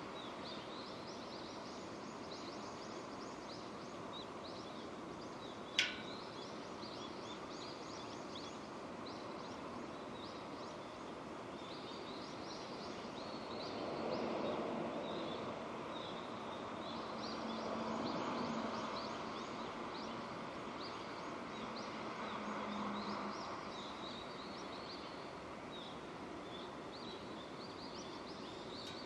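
Steady rain falling, with small birds chirping again and again through it. There is a single sharp tick about six seconds in, and the rain noise swells a few times in the middle.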